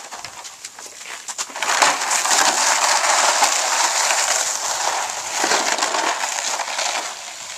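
Ice-crusted snow crunching and scraping, a rough crackling noise that swells about a second and a half in and eases off near the end.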